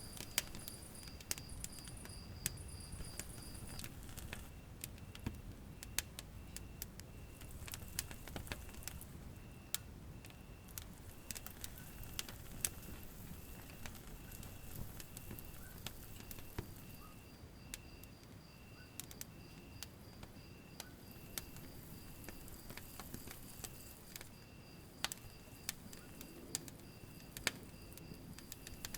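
Wood fire burning in a fireplace: a low rumble of flames with frequent sharp crackles and pops. A faint, high, insect-like chirp repeats steadily about one and a half times a second.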